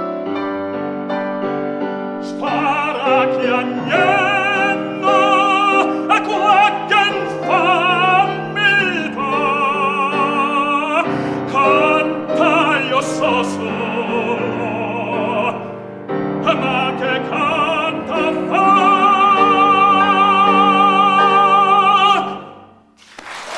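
Operatic tenor singing a Neapolitan song with piano accompaniment. The piano plays alone for about two seconds, then the voice enters with wide vibrato and ends on a long held high note that cuts off about a second before the end. Applause breaks out at the very end.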